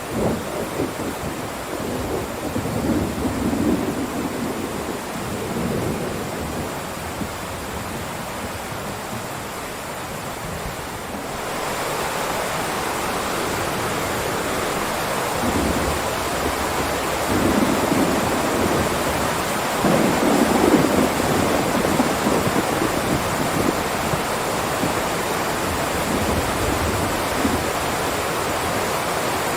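Heavy rain downpour, a steady hiss, with low rolling rumbles of thunder swelling and fading, the strongest about two-thirds of the way through. About eleven seconds in, the rain abruptly becomes louder and brighter.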